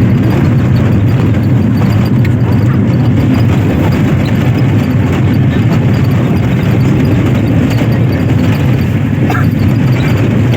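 Steady low rumble of wind and road noise from a moving vehicle, heavy on the microphone.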